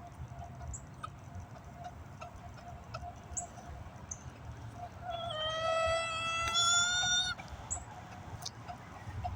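A rooster crowing once, about five seconds in: a single call of a little over two seconds, rising at first and then held level before it cuts off. Around it, faint clucking of hens.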